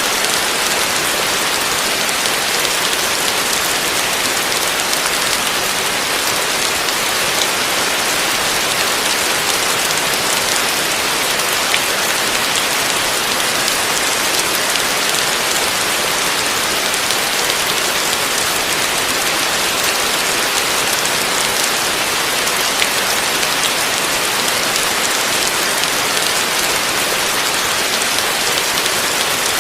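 Heavy rain falling steadily, a dense even hiss with a few sharper drop ticks.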